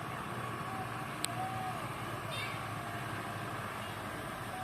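Steady low rumble of truck engines and road traffic, with one sharp click a little over a second in.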